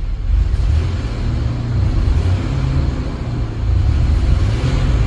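1994 Chevrolet S10 Blazer's 4.3-litre V6 running cold after a cold start, with a steady deep exhaust note that swells slightly in level twice.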